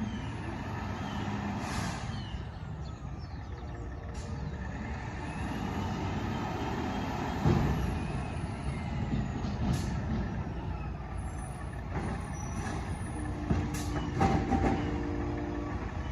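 Side-loader recycling garbage truck running, with a loud sharp bang about halfway through.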